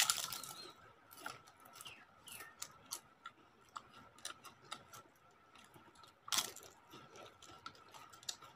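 Papad (papadum) crunching as it is bitten and chewed: a loud crunch at the start and another about six seconds in, with small crackles of chewing in between. A faint steady whine runs underneath.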